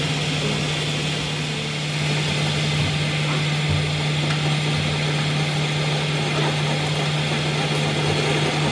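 A machine running steadily, with a constant low hum over a dense mechanical noise.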